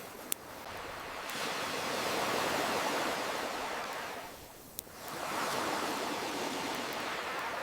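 Ocean waves washing onto a shore, swelling and ebbing, with two sharp crackles of a wood campfire, one just after the start and one near the middle.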